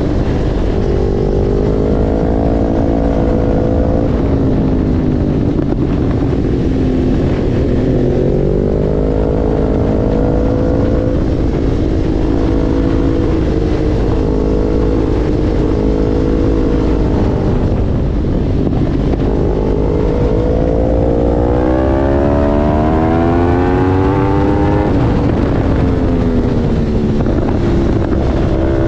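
Motorcycle engine at speed, its pitch climbing and levelling off several times as it pulls through the gears, with a long climb near the end that drops sharply. A steady low rushing noise lies underneath throughout.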